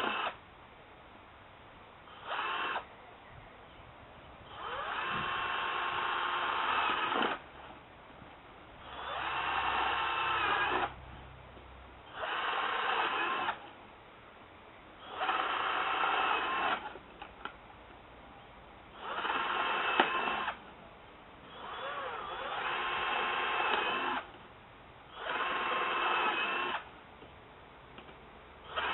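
Power drill boring a row of holes through the bottom of a coffee can, running in about eight separate bursts of one to two seconds each, with short pauses between holes.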